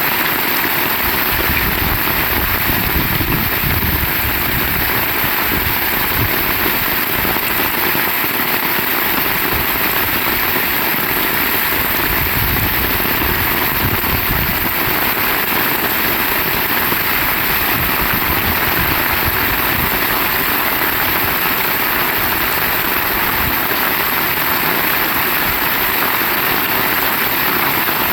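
Heavy rain falling steadily, an even hiss, with an uneven low rumble underneath.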